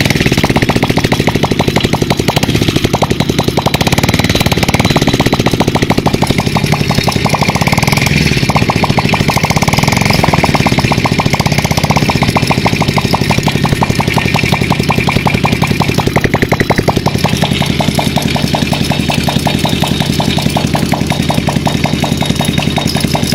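A vehicle engine running, its exhaust giving a loud, fast, even pulsing.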